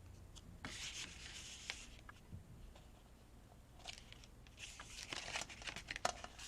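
Faint rubbing and rustling of paper being handled and glued down, in two stretches with a few light clicks.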